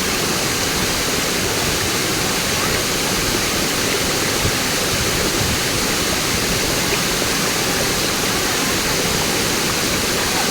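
Waterfall water rushing steadily, a loud, even noise without let-up.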